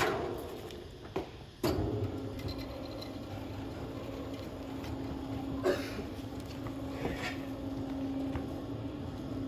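A machine running steadily with a low hum, broken by a few sharp knocks and clacks, the loudest near the start and about two seconds in.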